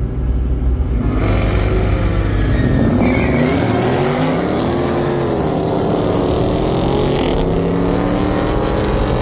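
Car engine launching hard in a race: about a second in, the engine sound jumps up and its pitch climbs, dips and climbs again as it accelerates, then runs steadier near the end.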